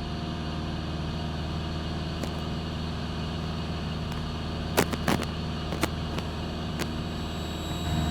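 Cessna 172 Skyhawk's piston engine and propeller droning steadily in the cockpit during cruise on approach, with a few brief clicks about five seconds in and again near seven seconds.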